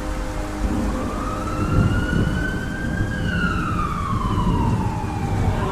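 A siren wailing: its pitch rises slowly from about a second in, peaks near the middle, falls over the next two and a half seconds, and starts rising again at the very end, over a steady low rumbling noise.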